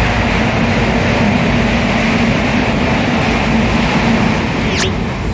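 Steady running rumble and rattle of a Tejas Express passenger coach on the rails, heard from inside the vestibule by the doors, with a steady low hum. Near the end comes a brief high-pitched squeak.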